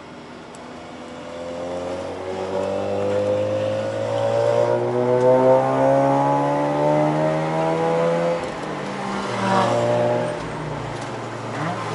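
Mazda RX-8's rotary engine heard from inside the cabin under hard acceleration. It gets louder about a second in and its pitch climbs steadily for several seconds, drops at an upshift about three-quarters through, then starts climbing again near the end.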